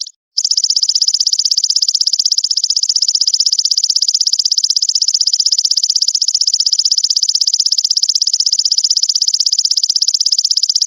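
A songbird's continuous trill, a very fast, even stream of high-pitched notes, delivered in the 'brem' style of a masteran bird-song recording. It breaks off for a moment right at the start.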